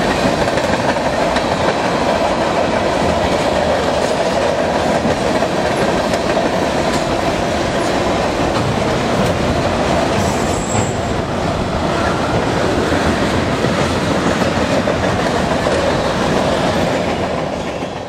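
Freight train of tank cars and autorack cars passing close by: a loud, steady rumble and clatter of steel wheels on the rails.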